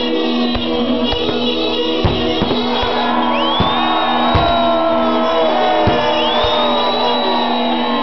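Bulgarian bagpipes playing a melody over steady held drones, with irregular sharp bangs from fireworks going off.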